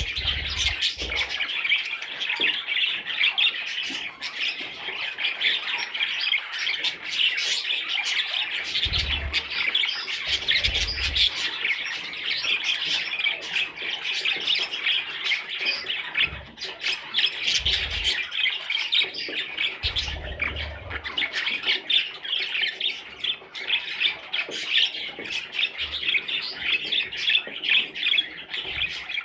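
Budgerigars chattering without a break, with a few short low thumps in the middle.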